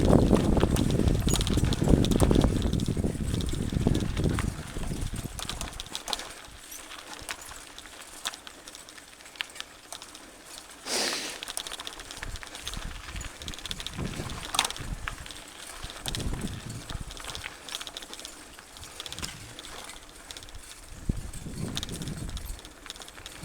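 Mountain bike riding along a dirt trail: a loud, low rumble for the first few seconds, then quieter rolling with scattered clicks and rattles from the bike and trail surface, and two brief louder rattles partway through.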